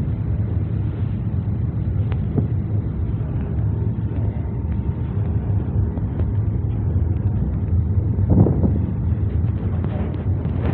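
Steady low rumble of a boat under way on the harbour, with wind buffeting the microphone; a louder thump about eight seconds in.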